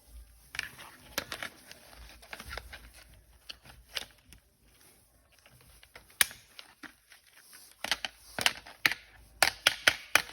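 Hard plastic toy parts and packaging being handled: scattered sharp clicks and crinkles, turning into a quick run of louder clicks in the last couple of seconds.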